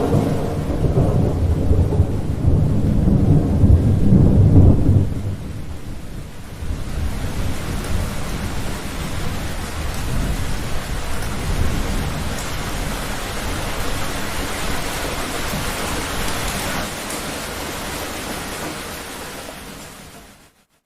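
A thunderclap rumbling deep and loud for about five seconds, then steady rain pouring, fading out near the end.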